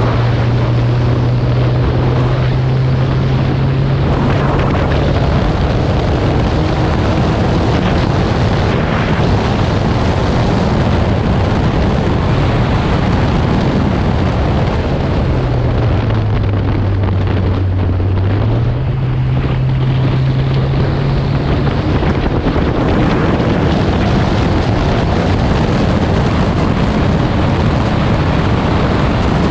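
Porsche 944S four-cylinder engine running at track speed under heavy wind rush on the microphone. The engine note drops for a few seconds around the middle, then climbs back.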